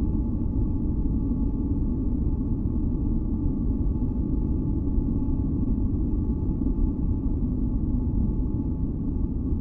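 Synthesized relaxation noise track: a steady, deep hiss weighted toward the low end, with a few faint held tones above it that do not change.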